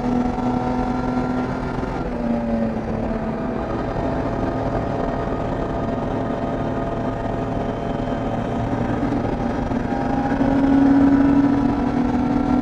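BMW E30 325is race car's 2.5-litre straight-six running hard under racing load. The engine note steps in pitch about two seconds in and rises and grows louder for a second or two near the end.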